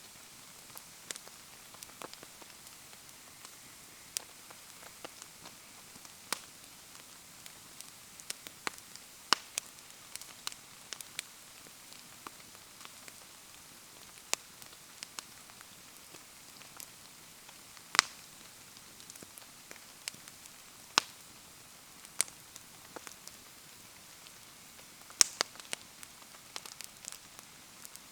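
Wood bonfire crackling in steady rain: an even hiss of rain with sharp, irregular pops and ticks throughout, a few much louder than the rest.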